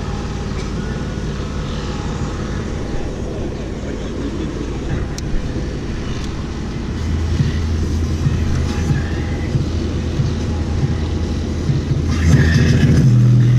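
Deep bass notes from a car stereo turned up loud inside the car, the door speakers distorting and rattling the door. A louder low note comes in about halfway, and a higher one near the end.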